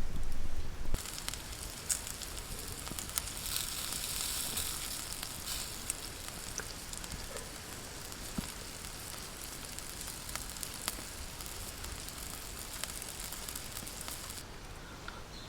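A low rumble in the first second. Then a campfire sizzles steadily with scattered crackles and pops, and the sizzle cuts off suddenly about a second before the end.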